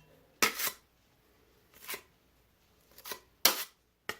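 Steel drywall knives scraping and working thick joint compound, kneaded to loosen it: about five short strokes at irregular intervals with pauses between.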